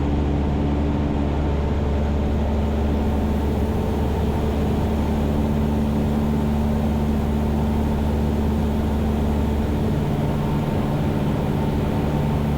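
Cessna 172 Skyhawk's piston engine and propeller droning steadily in flight, heard inside the cabin. The tone shifts slightly about ten seconds in.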